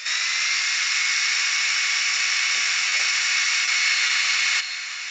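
Electric drill running steadily at speed, with a faint high whine over its noise. It drops to a quieter level near the end.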